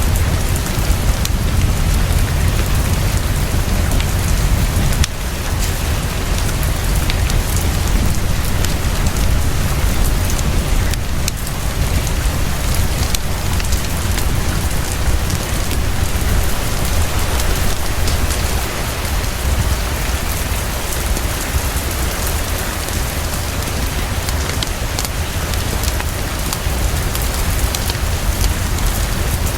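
Heavy, fast, steady rainfall with a deep low rumble under it and scattered small ticks. The loudness dips slightly about five seconds in.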